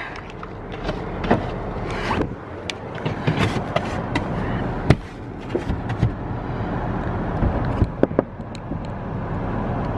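A car running, a steady rumble and hiss, with scattered sharp knocks and taps.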